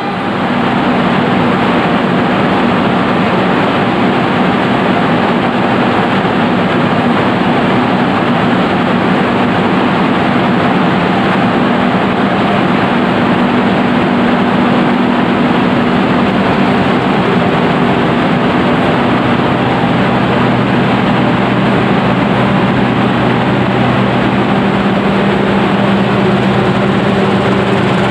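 Passenger train pulling out of the station: a steady loud rumble of the carriages rolling on the rails, mixed with a low diesel engine hum whose pitch drops a little about two-thirds of the way in.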